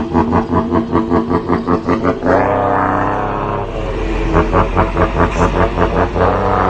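Old Scania-Vabis truck's diesel engine running with a rhythmic pulsing chug, about six beats a second. It smooths into a steadier tone for a moment in the middle, then goes back to chugging.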